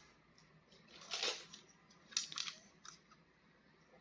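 Faint crinkling of plastic toy packaging being handled, in a few short bursts: one about a second in, a cluster around two seconds and a brief one near three seconds.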